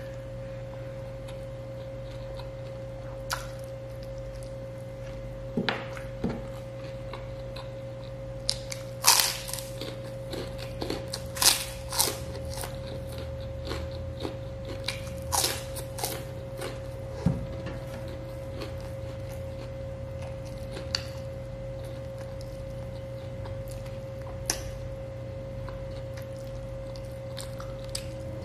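Close-up eating sounds of a man eating grilled chicken and rice by hand: chewing and short wet mouth clicks and smacks, coming thickest around the middle, over a steady electrical-sounding hum.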